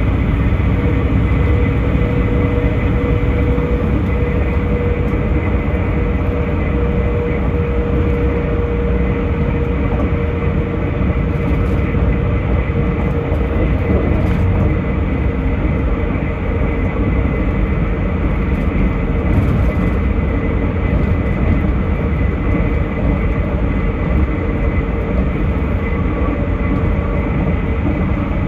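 Inside a South Western Railway Class 159 diesel multiple unit running at speed: a steady, loud rumble of the underfloor diesel engine and wheels on the track, with a hum that sinks slightly in pitch and fades about halfway through.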